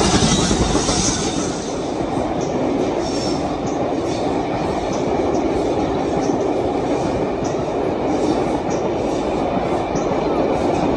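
Passenger coaches of a train rolling past close by: a steady rumble of wheels on rail with a run of short, irregular clicks as the wheels cross rail joints.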